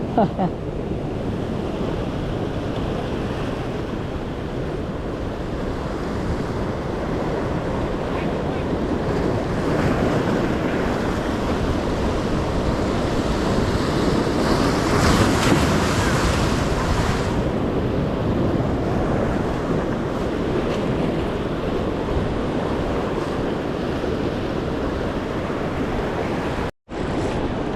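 Ocean surf washing in steadily, with wind buffeting the microphone. The surf swells louder for a few seconds about halfway through.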